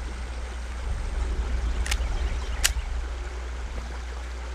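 Wind buffeting the microphone in a steady low rumble, with two sharp clicks about three quarters of a second apart around two seconds in.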